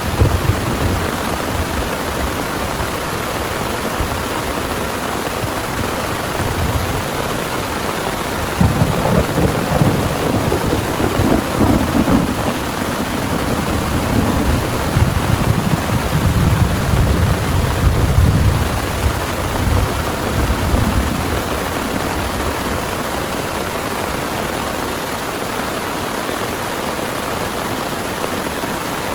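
Heavy rain falling steadily, with rolling thunder rumbling low in long swells from about nine seconds in until around twenty seconds.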